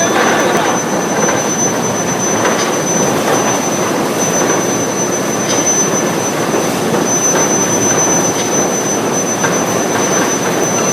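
IGBT induction heating furnace running: a loud, steady industrial noise with a thin, high-pitched whine held steadily above it and a few faint ticks.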